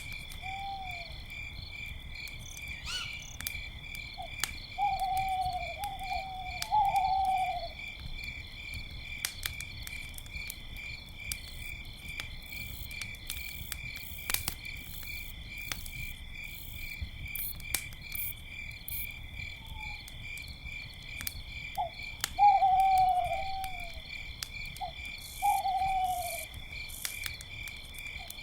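Owl hooting in two bouts of several short falling hoots, over a steady pulsing chorus of crickets, with scattered crackles from a campfire.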